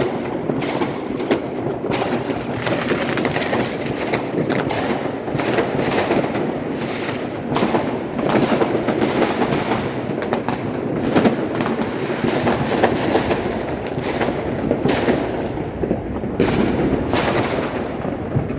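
Fireworks and firecrackers going off without pause: a dense crackle of many sharp bangs a second over a constant rumbling haze.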